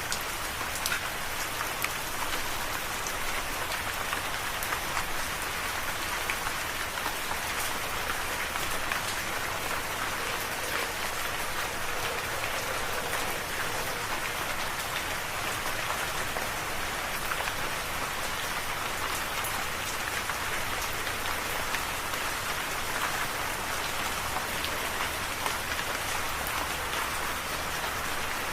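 Steady rain falling and pattering on a surface, individual drops ticking through an even hiss.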